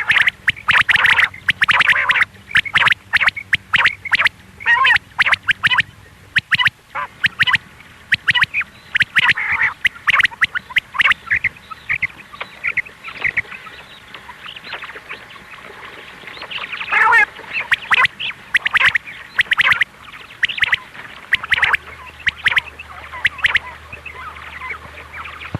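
Quail calling: a rapid, busy run of short, sharp chirps and clicks, repeating with brief gaps.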